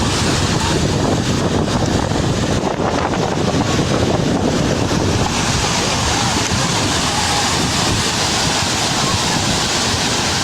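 Loud, steady rushing roar of a storm, with wind buffeting the microphone; its character shifts slightly about five seconds in.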